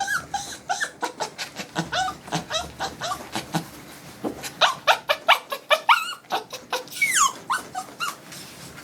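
A small Poodle-Maltese mix dog crying out in quick, repeated short cries, with a high rising-and-falling whine about seven seconds in. She is objecting to having her coat brushed out.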